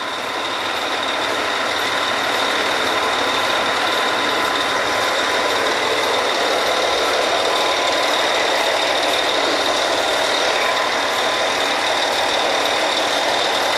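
Steady machinery noise of a working oil-well drilling rig, with a faint steady high whine running through it.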